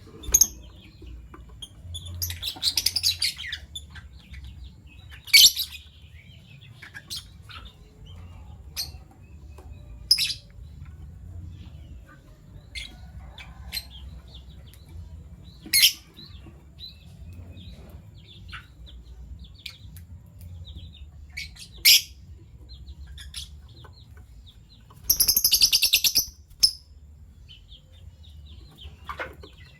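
Fischer's lovebirds chirping: sharp, single high calls every few seconds, with two longer bursts of rapid chattering notes, one about two seconds in and one about twenty-five seconds in.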